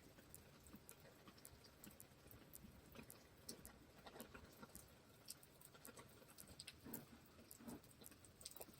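Faint rain pattering: scattered, irregular drops ticking over a low background hush.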